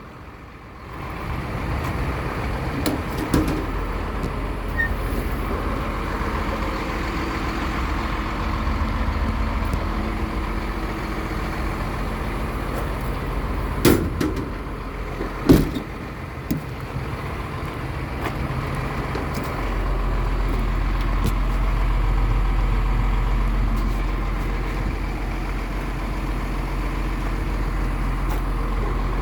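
Hino truck's diesel engine idling steadily, its low hum growing louder about two-thirds of the way through. Two sharp clunks around the middle.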